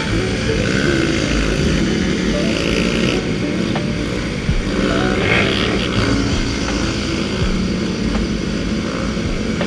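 Motorcycle engine running under way, its pitch shifting as the throttle changes, with wind noise over it.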